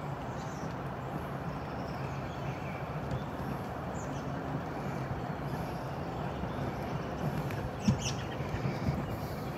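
Steady outdoor background rumble with a few faint, high bird chirps, and one brief knock near the end.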